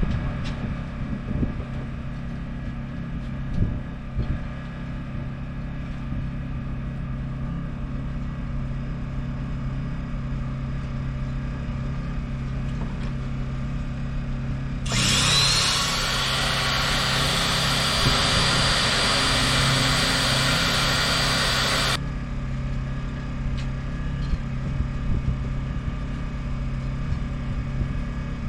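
Small electric motor of an oil extraction pump spinning up with a rising whine about halfway through, running steadily for about seven seconds and then cutting off suddenly. A steady low hum runs underneath the whole time.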